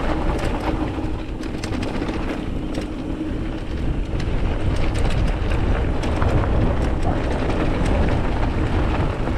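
Wind buffeting the microphone during a mountain-bike ride, a steady low rumble with scattered clicks and rattles from the bike on rough trail.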